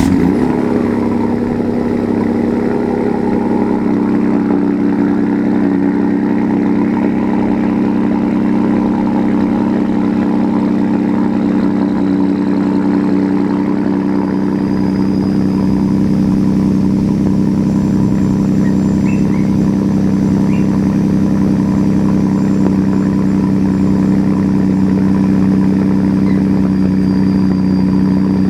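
Ford 3.5L EcoBoost twin-turbo V6 through a Corsa Extreme cat-back exhaust with resonator delete, flaring briefly as it catches on a cold start and then holding a steady fast cold idle.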